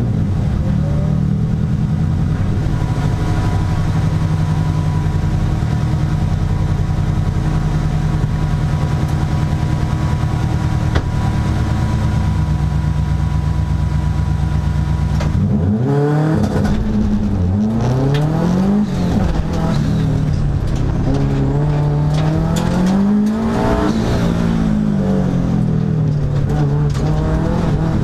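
Hillclimb competition car's engine heard from inside the cockpit, held at steady revs for about fifteen seconds. It then drops and climbs sharply as the car launches up the hill, and revs rise and fall repeatedly through gear changes and corners.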